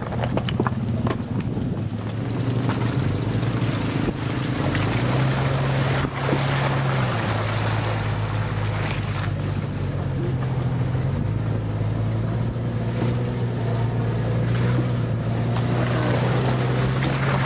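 Jeep Cherokee's 4.0-litre straight-six engine running at low revs while the vehicle drives slowly over a rough dirt track, its note stepping up and down a few times as the revs change, with wind and tyre noise underneath.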